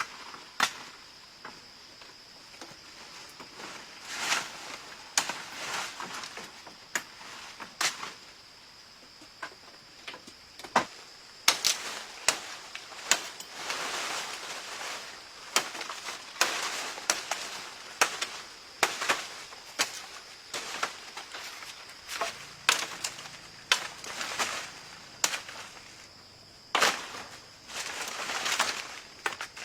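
Irregular sharp cracks and knocks with short rustling swishes in between, typical of branches and bamboo being broken, chopped and dragged while storm debris is cleared. A faint steady high tone runs underneath.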